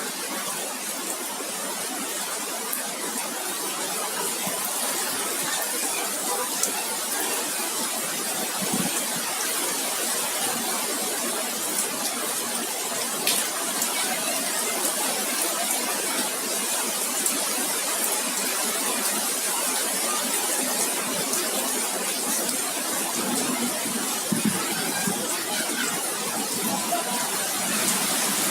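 Heavy rain falling with hail: a steady hiss, with scattered sharp ticks of hailstones striking.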